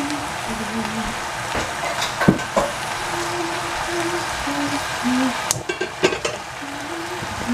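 Sliced zucchini, onion and carrot frying in a stainless steel saucepan, a steady sizzling hiss. A few sharp clicks and knocks sound from about two seconds in, and the sizzle dips briefly a little past halfway.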